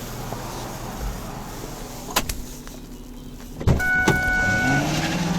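Car sounds: a sharp click about two seconds in, then a thump, followed by a short steady chime and a motor whine that rises in pitch.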